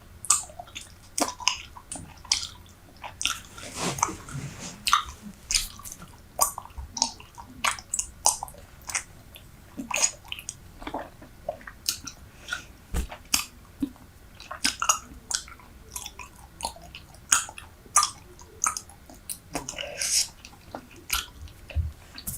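Close-miked chewing of a wad of Super Bubble bubble gum: wet, irregular smacks and clicks, several a second.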